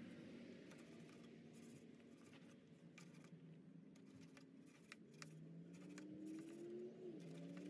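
Faint scratching and scattered light clicks, with a faint low hum in the second half that rises in pitch and then drops near the end.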